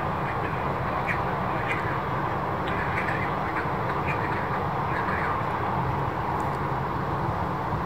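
Short bird calls, about one a second, over a steady outdoor rumble of wind and distant engine noise.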